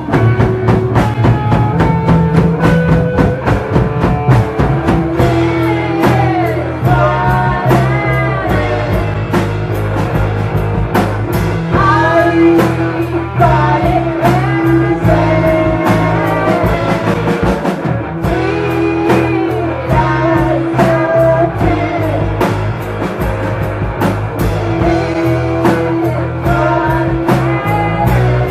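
Live band playing a song: a drum kit keeping a steady beat under bass and guitar, with a singer's voice coming in about five seconds in.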